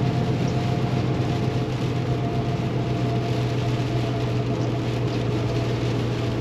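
Paccar MX13 inline-six diesel of a Kenworth T680 semi truck running steadily under way, heard inside the cab as a low hum with a few steady tones, over a constant hiss of road and wind noise.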